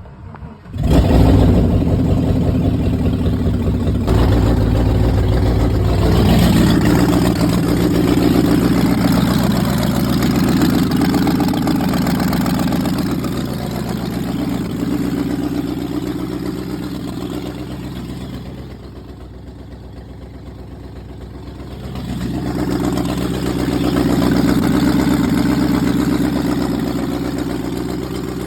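Freshly rebuilt Land Rover Discovery 1 V8 petrol engine cranking and catching about a second in, then running. Its revs sag and it nearly dies about two-thirds of the way through, then picks back up: an engine that doesn't want to idle.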